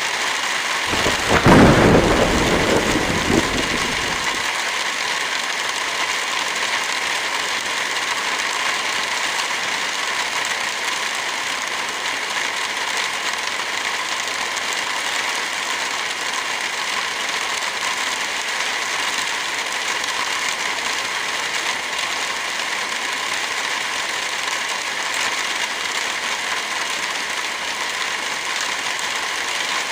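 Steady rain falling, with a low rumble of thunder that swells and dies away in the first few seconds.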